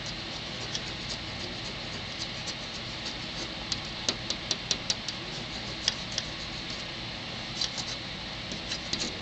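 Brooding pet dove pecking at a hand: a string of sharp, light clicks, about five in quick succession near the middle and a few more clusters toward the end, over a steady background hum.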